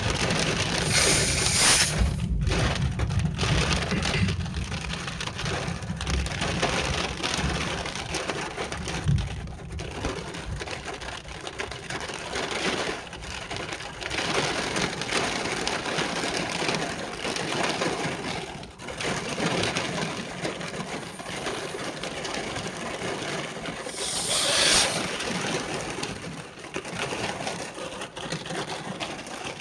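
Heavy rain pouring steadily. A low thunder rumble runs under it for about the first ten seconds, and two short, louder hissing surges come about a second and a half in and again near 24 seconds.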